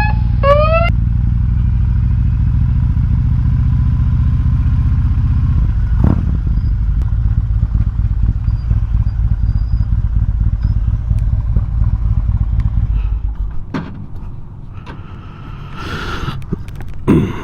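Harley-Davidson Road King's V-twin engine running under way with a low, pulsing rumble, which falls away to a much quieter sound about fourteen seconds in. A short rising siren-like wail is heard in the first second.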